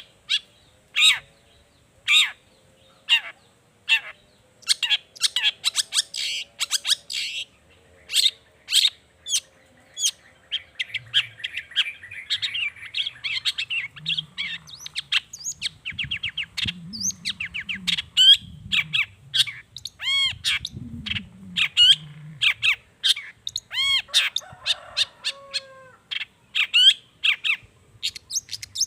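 Long-tailed shrike (cendet) singing: sharp separate calls about once a second at first, then a fast, varied run of chirps, trills and squawks.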